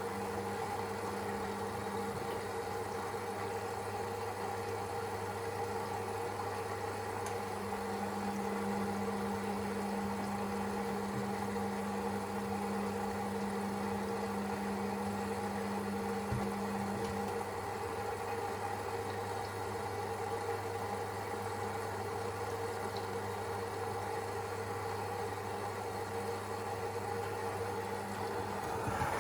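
Siemens Extraklasse XLS 140 A washing machine running a 90 °C boil-wash cycle: a steady mechanical hum. A higher tone joins about seven seconds in and stops about ten seconds later.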